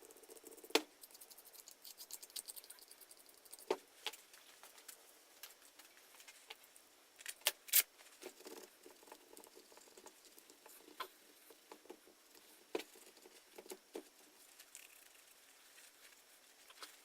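Paint scraper pushing chemically softened paint off the body of an old grinder. The scraping is soft and scratchy, with scattered sharp clicks as the blade catches and knocks.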